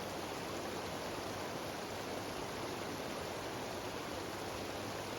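Mountain stream cascading down rocks in a series of small waterfalls, a steady, even rush of water.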